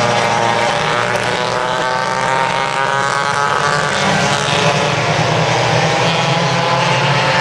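Several vintage racing go-karts' small engines running hard together on track. Their overlapping pitches waver and glide slowly up and down as the karts accelerate and pass.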